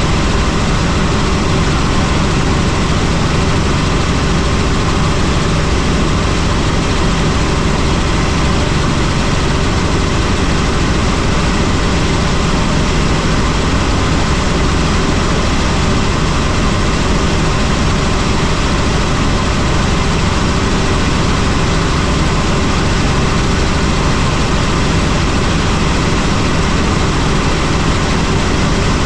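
Helicopter in flight: steady, loud engine and rotor noise.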